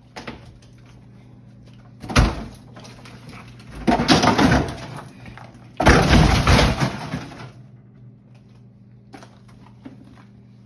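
A sharp knock, then two long, rough scraping and cracking noises: built-up ice being broken and pulled out of a freezer compartment by hand.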